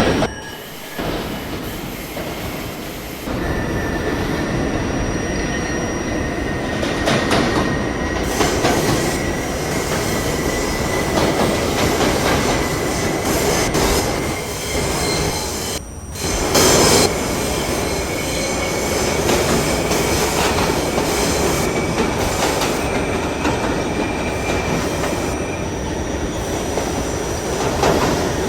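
R68A subway car running between stations, heard on board: a steady rumble of wheels on rail with thin, high-pitched wheel squeal drawn out over several seconds at a time. The sound cuts out briefly just after the start and again about halfway through.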